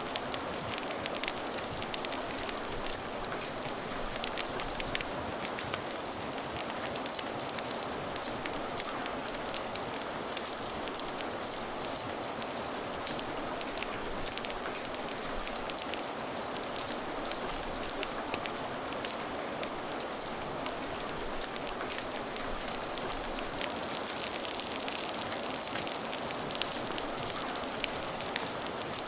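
Steady rain with the sharp pops and crackles of a wood fire mixed in, an even hiss dotted with many small ticks.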